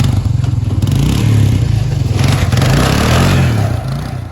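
ATV engine revving hard, its pitch rising and falling, with a loud rush of noise from about a second in as the quad is driven while getting stuck. It cuts off suddenly at the end.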